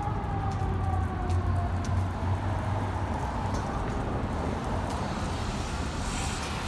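Fire truck siren winding down, its tone falling slowly in pitch and fading over the first couple of seconds, over the steady low rumble of the truck's engine.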